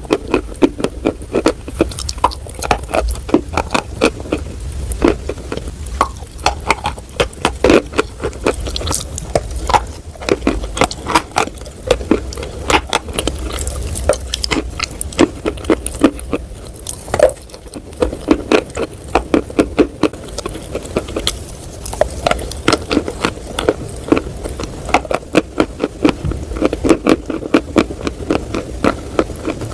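Close-miked mouth crunching and chewing edible chalk: rapid crunches with sharp clicks several times a second.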